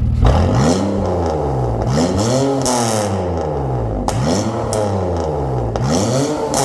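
BMW X5 E53 gasoline engine revved through a custom electronic valved exhaust with a center resonator and 90 mm dual tips. Four rev blips, each rising in pitch and then falling back.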